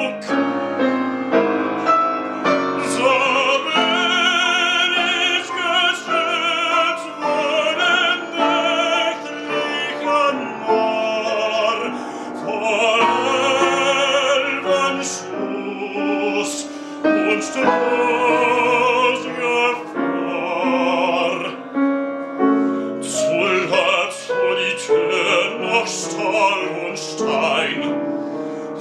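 Operatic baritone singing in German with strong vibrato, accompanied by piano; dramatic late-Romantic art song.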